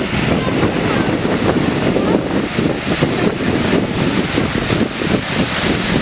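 Loud, steady rush of water with wind buffeting the microphone in uneven gusts.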